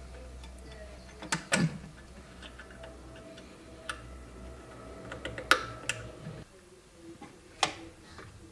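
Small metallic clicks and taps of hand tools working on the fastenings of a Stromberg carburettor, with a few louder sharp knocks spread through. A low steady hum underneath stops about six and a half seconds in.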